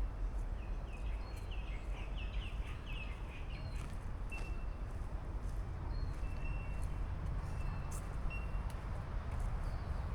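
Birds calling: a quick run of chirps in the first few seconds, then short single whistled notes now and then, over a steady low rumble.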